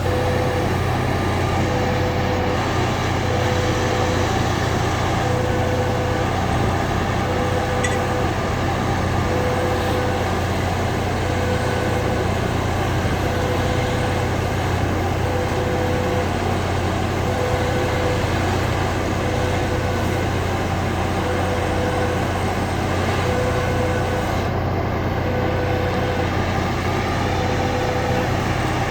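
Track-repair machinery's engine running steadily, with a warning beeper sounding about every two seconds.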